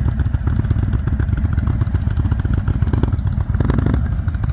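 Indian Super Chief Limited's Thunderstroke V-twin engine running at idle, a steady rapid low pulse.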